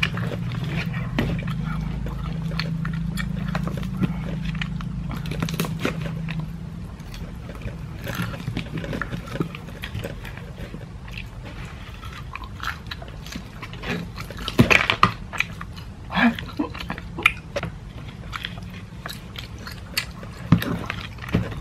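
Close-up mouth sounds of chewing crispy fried chicken, with fingers picking and tearing at the crunchy coating. Scattered clicks and crackles run through it, with a few louder, sharper crunches in the second half.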